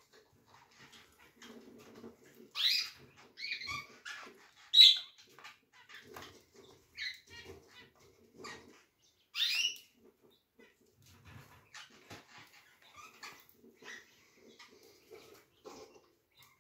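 Caged birds giving short, scattered chirps, high-pitched and separated by pauses. The loudest come about three, five and nine and a half seconds in.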